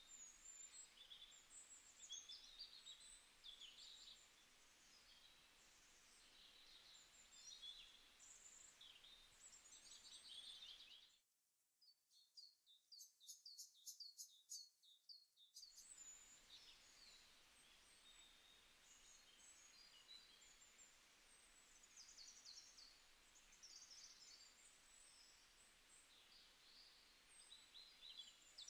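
Faint bird chirps, scattered and high, over a low steady hiss. About eleven seconds in, the hiss drops away for some four seconds, leaving a quick run of evenly spaced high chirps.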